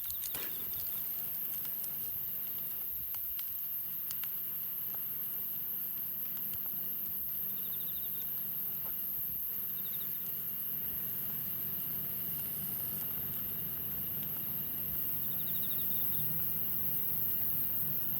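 Wood campfire crackling, with pig's trotters sizzling faintly on a grill over the fire and scattered sharp pops, most of them in the first few seconds.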